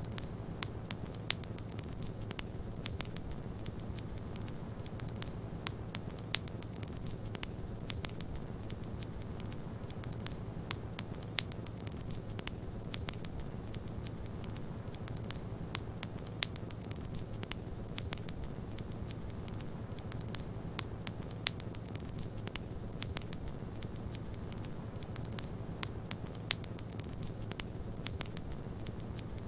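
Wood fire crackling, with sharp irregular pops scattered over a steady low rumble.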